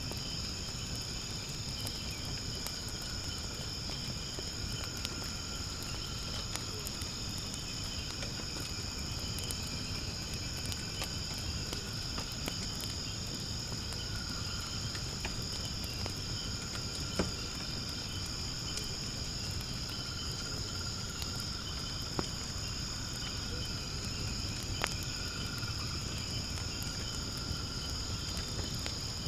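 Steady high insect chirring over a wood fire burning in a fire pit, with a low rumble and scattered sharp crackles, the loudest about 17 seconds in.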